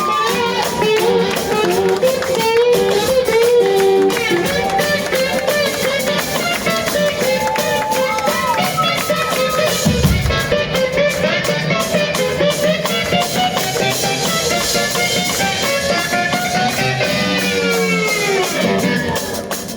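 Rock band playing: electric guitar with bending, gliding notes over drums, with a long downward sweep of the guitar near the end.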